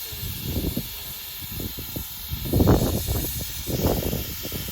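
Aerosol spray-paint can spraying in one long, steady hiss, with low rumbling thumps underneath that are loudest around the middle.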